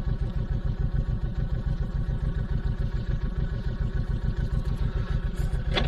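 Honda VTX1800C's big V-twin engine running at a steady, even low pulse as the cruiser is ridden slowly off-road across a wet grass field.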